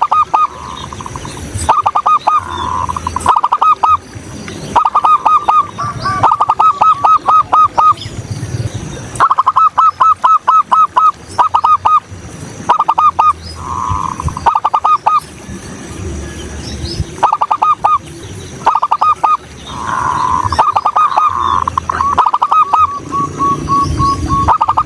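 Zebra dove (perkutut) cooing: repeated bouts of quick, rolling staccato coo notes, each bout ending in a held note, about eight bouts with short pauses between them.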